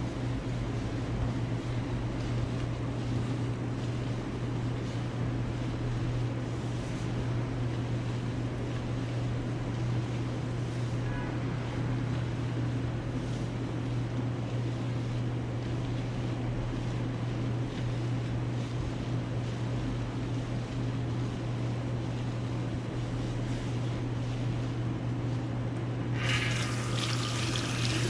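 A steady low hum with a soft noise behind it; near the end water from a tap starts running suddenly and keeps running, as for rinsing hair at a shampoo bowl.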